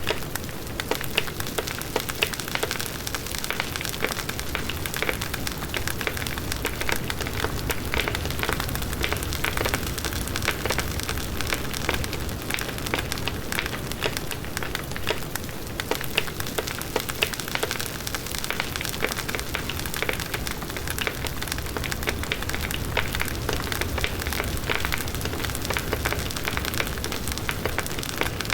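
Large bonfire of burning wood crackling and popping irregularly over a steady low rush of the flames.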